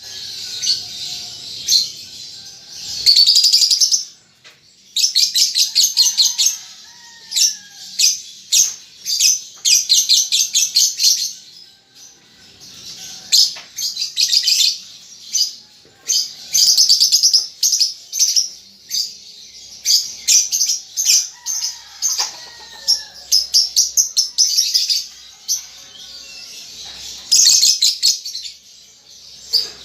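Young lovebird chattering in rapid trains of high, sharp ticks, each lasting a second or so with short breaks between them. These are the stuttering 'ngetik' and 'ngekek' calls of a juvenile still learning to sing.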